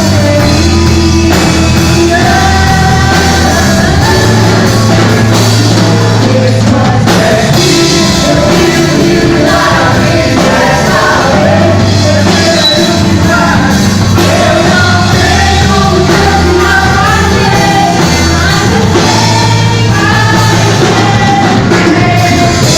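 A band rehearsing a rock song, with a singer's voice over the instruments. The playing is loud and continuous.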